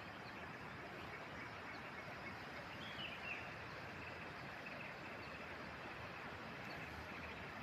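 Steady outdoor background rush with a bird giving one descending whistled call about three seconds in, and a few faint chirps.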